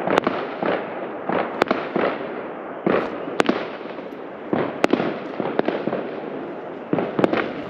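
Fireworks going off: a string of sharp bangs at irregular intervals, roughly one every second or so, over a continuous crackle of many smaller pops.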